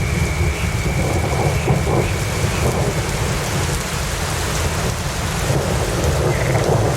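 Steady heavy rain with a continuous low rumble of thunder beneath it.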